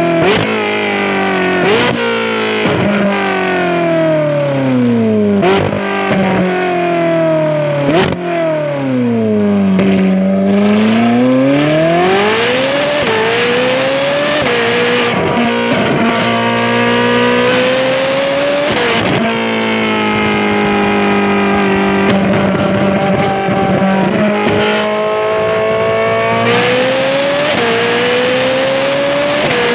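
Ferrari 458's naturally aspirated V8 through a titanium valved exhaust with free-flow front pipes, heard close to the exhaust while driving. The revs climb and fall repeatedly, with sharp cracks at the gear shifts in the first several seconds, a long drop and rebuild in pitch around the tenth second, then a steadier cruise before climbing again near the end.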